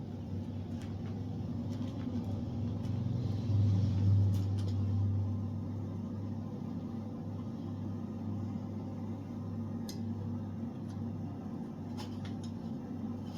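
A blacksmith's forge running with a steady low rumble that swells briefly about four seconds in, with a few light metallic clicks.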